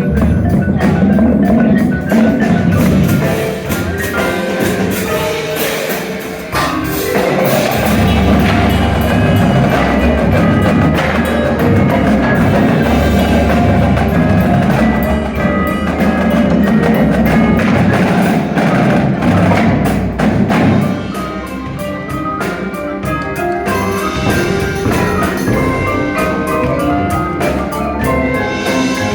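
High school winter winds ensemble playing its competition show: held notes from wind instruments with a percussion section striking pitched and unpitched instruments. The music eases briefly about six seconds in, then swells again.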